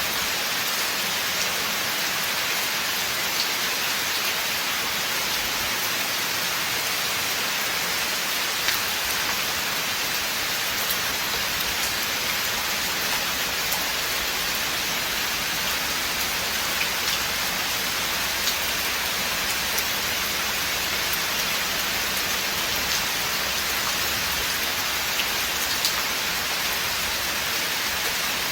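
Steady rain falling in a forest: an even hiss of rainfall with scattered sharper ticks of single drops striking close by.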